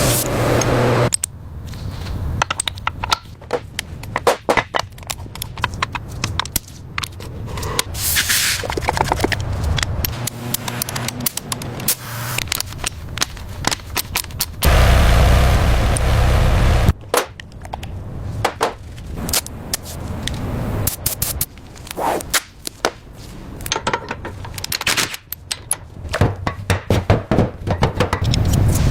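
Workshop work sounds: a run of sharp clicks, knocks and scraping, with a loud burst of low, rushing machine or air noise about halfway through lasting a couple of seconds.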